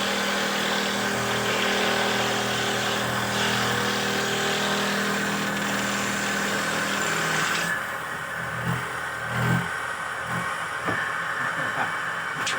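The motor of a simple handmade wooden dowel-making machine running steadily with a hissing cutting noise. The hiss cuts off abruptly about eight seconds in, and the motor keeps running with a few low knocks.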